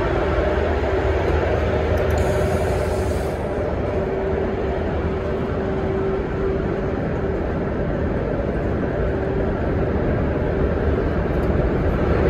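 Train of locomotive-hauled IC1 coaches running steadily, a constant rumble with a steady hum through it. There is a short high hiss about two seconds in.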